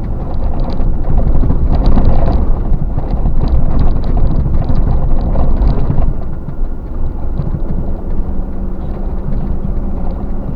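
A vehicle in motion: a loud, dense rumble with constant knocking and rattling, easing about six seconds in to a quieter, steadier run with a low hum.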